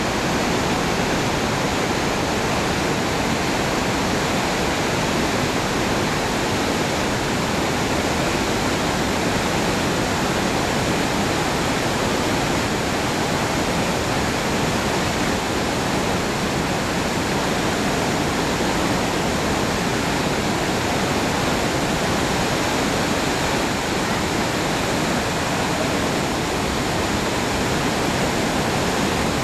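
Rhine Falls, a large waterfall, rushing: a steady, loud, unbroken wash of falling water.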